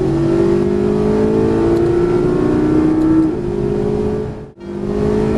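McLaren 12C's twin-turbo V8 heard from inside the cabin, pulling hard with its pitch rising steadily, then dropping a little about three seconds in. The sound briefly cuts out about four and a half seconds in, then the engine resumes.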